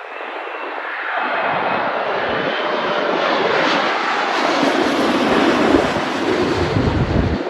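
Jet airliner's engines growing louder as the aircraft passes close, a dense roar with a faint whine, then falling away abruptly near the end.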